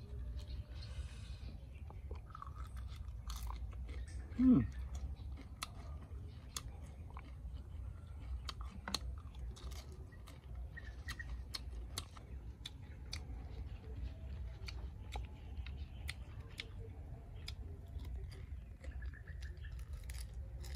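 Someone chewing and biting into crispy fried shrimp, with many short, irregular crunches. A brief falling sound about four and a half seconds in is the loudest moment.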